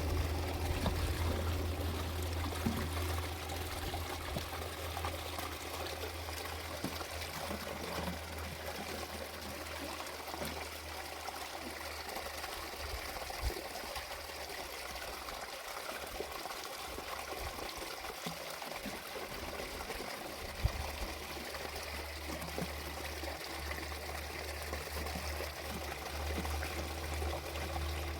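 Water running or trickling steadily, with occasional small clicks and knocks.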